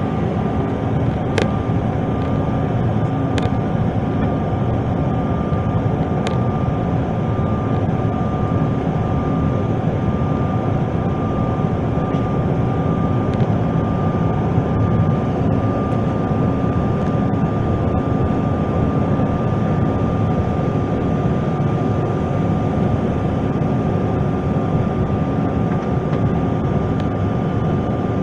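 Steady cabin noise of a Bombardier CRJ-900 regional jet in flight: the drone of its rear-mounted turbofan engines and airflow, with a thin steady whine over it.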